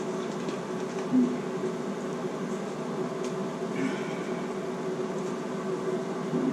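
Steady hum of a bathroom exhaust fan, with a brief knock about a second in and a short rustle near four seconds.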